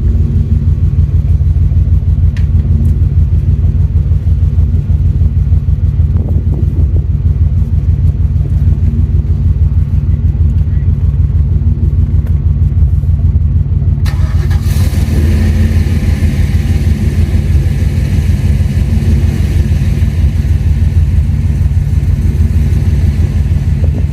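1990 Chevrolet Corvette's V8 running steadily at idle, its firing pulses even and low. About fourteen seconds in, a steady hiss comes in over the engine.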